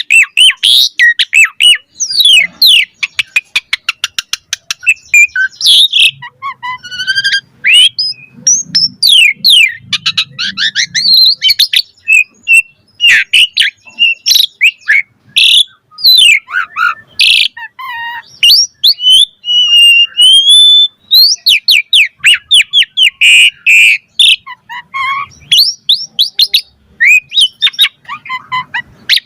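Asian pied starling (jalak suren) singing a long, varied song: fast rattling trills, gliding whistles and harsh squawking notes run together without pause.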